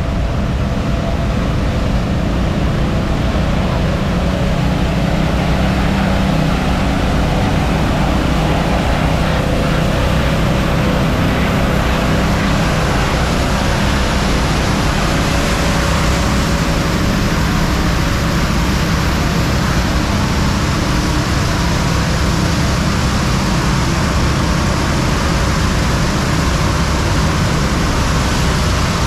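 Loud, steady rushing noise with a low hum underneath, unbroken throughout.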